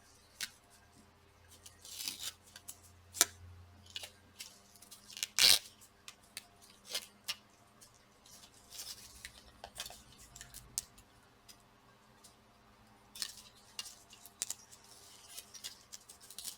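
Small screwdriver and laptop parts being handled at close range: scattered light clicks and short scrapes. The loudest is a sharp click about five and a half seconds in.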